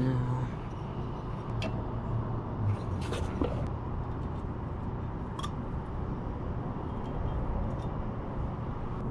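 A few light clicks and taps of metal engine parts being handled during a pit bike top-end rebuild, with a small cluster about three seconds in, over a steady background hum.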